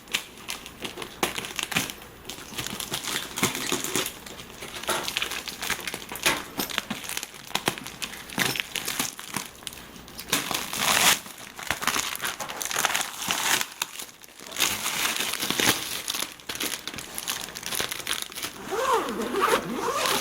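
Taped-up shipping bag being torn open and handled, with irregular crinkling and tearing of the packaging and tape.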